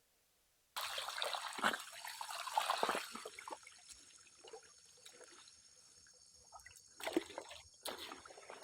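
Water trickling and splashing, with scattered small knocks, starting suddenly about three quarters of a second in; busiest at first and again near the end.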